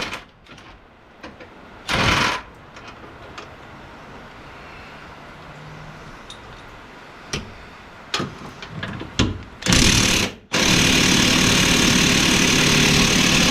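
Impact wrench hammering on bolts: a short burst about two seconds in, another near the ten-second mark, then a long continuous run near the end. Small clicks and tool clatter in between.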